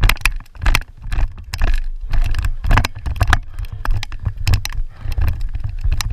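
A steady low rumble with a rapid, irregular run of sharp clicks and knocks, a few each second.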